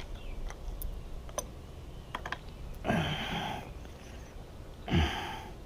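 Light clicks and taps of a watermaker membrane-housing end cap and its retaining tabs being lined up in their slots. Two short grunts of effort come at about three and five seconds.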